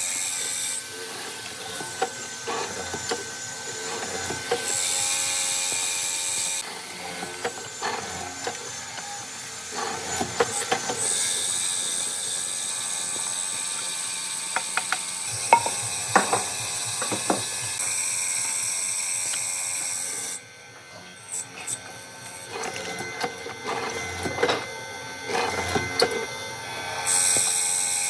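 Workshop tool noise: a steady high hiss that starts and stops in stretches of a few seconds, the longest lasting about nine seconds, with small wooden knocks and clicks from handling the work between them.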